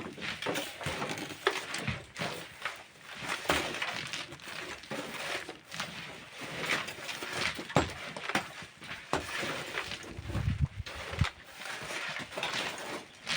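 Irregular scrapes and knocks of hand tools working sand and stone, a dozen or more uneven strikes with a short low rumble about ten seconds in.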